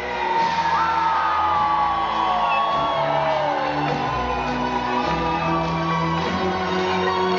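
Rock band playing an instrumental passage: a high lead line slides down in pitch over held chords, with shouts and whoops from the audience.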